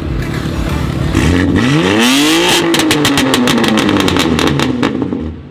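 A performance car's engine revved hard once, its pitch climbing fast and then sinking slowly as the revs fall, with a rapid rattle of exhaust pops and bangs on the overrun.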